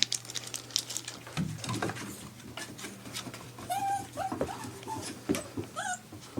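Young puppies whimpering in a few short, high cries in the second half, over the patter and clicking of small paws and claws.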